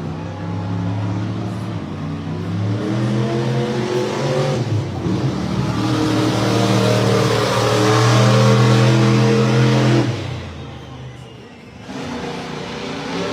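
Monster truck's big-block V8 revving hard, climbing in pitch through several surges to full throttle. About ten seconds in it suddenly lets off, then revs up again near the end.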